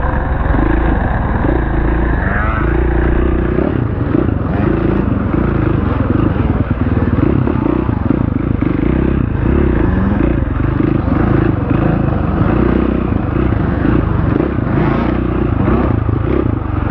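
Off-road enduro motorcycle engine running under the rider, its pitch rising and falling as the throttle opens and closes along the trail.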